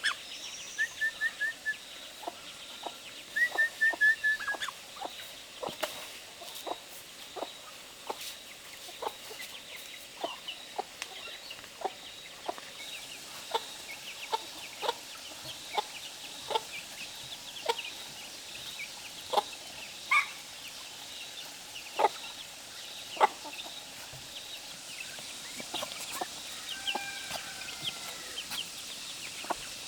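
Chickens clucking: short, sharp calls scattered all through, with a couple of quick runs of rapid calls in the first five seconds.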